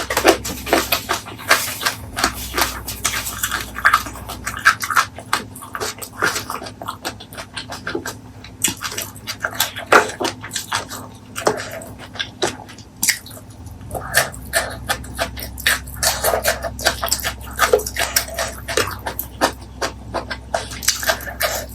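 Close-miked eating sounds: wet chewing and sharp mouth clicks coming irregularly, several a second.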